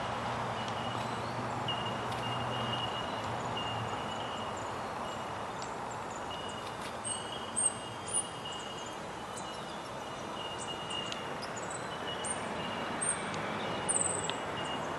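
Outdoor background with a thin, steady high-pitched drone that comes and goes. A low hum fades out about four seconds in. Brief high chirps of small birds sound now and then, and two short ticks come about halfway.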